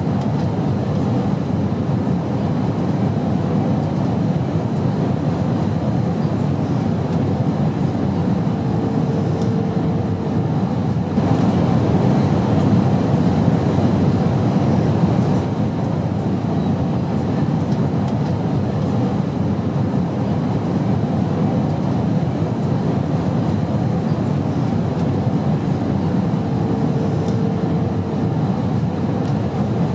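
Airplane cabin noise: a steady low rumble of engines and rushing air that swells slightly for a few seconds. A short steady tone sounds twice over it.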